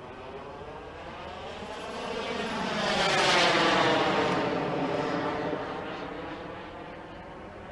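Radio-controlled model Eurofighter jet flying past: its engine noise builds, is loudest about three and a half seconds in, then fades away.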